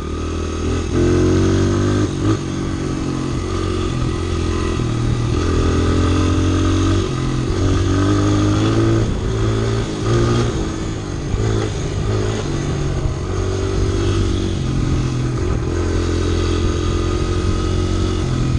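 Honda CRF100 dirt bike's single-cylinder four-stroke engine running under way, its pitch stepping up and down repeatedly as the throttle opens and closes.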